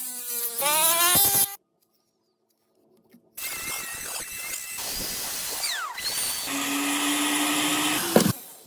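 Small electric power tool whirring, then cutting off suddenly; after a short silence, a longer stretch of noisy tool work.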